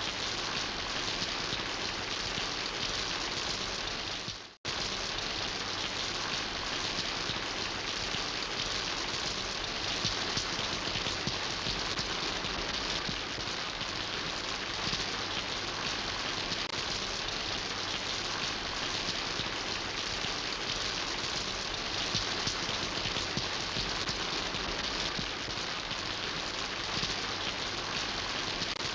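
Steady rain falling and pattering on surfaces, an even hiss. The sound fades out and briefly drops to silence about four and a half seconds in, then resumes at once: a cut in the recording.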